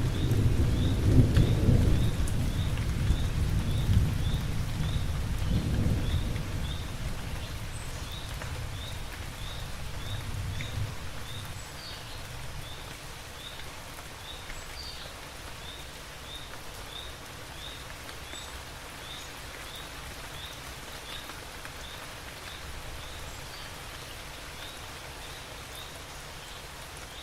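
Steady rain with a long roll of thunder that rumbles over the first few seconds and fades away by about ten seconds in. Through it a faint high chirp repeats about twice a second.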